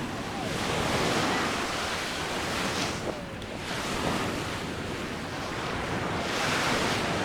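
Sea waves breaking on a beach, the surf noise rising and falling in surges every couple of seconds.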